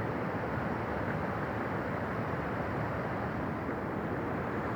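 Steady rushing of a waterfall, an even noise that holds at the same level throughout.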